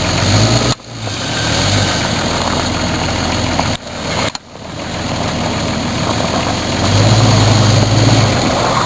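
Jeep Grand Cherokee engine running under load as the SUV works through deep snow, its note growing louder near the end. The sound drops out briefly twice.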